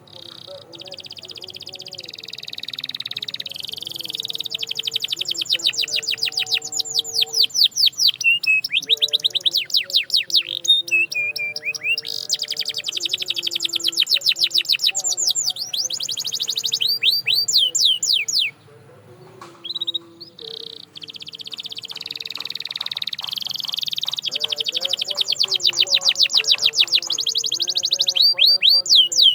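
Canary singing: long trilled phrases of rapid, repeated falling notes that build in loudness, with a short pause about two-thirds of the way through before the trilling resumes.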